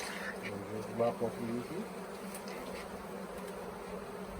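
Swarming honeybees buzzing in a steady, continuous hum close to the microphone, with a brief voice about a second in.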